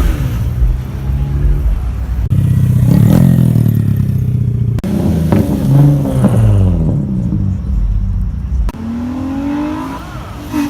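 Loud vehicle engines revving, their exhaust note sliding up and down in pitch again and again, with abrupt changes at a few points. It is quieter near the end, with higher rising and falling engine tones.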